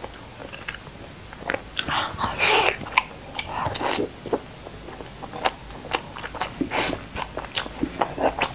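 Close-miked chewing and biting of fatty glazed pork belly: a run of short wet smacks and clicks from the mouth, with a denser, louder stretch about two to three seconds in.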